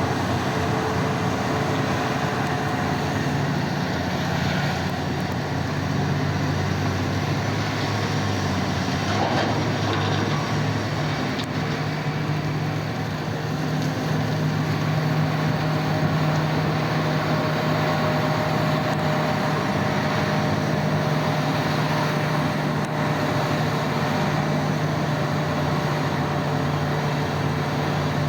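Heavy diesel mining machinery running steadily: the engines of a large 994 wheel loader and haul trucks working during loading, a continuous low drone.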